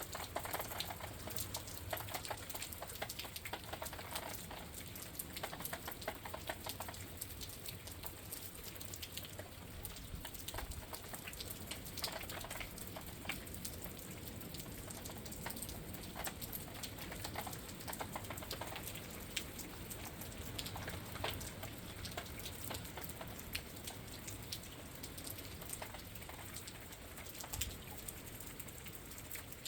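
Rain falling outside a window: a steady wash of rain with many separate drops ticking, the drops coming thicker in the first few seconds.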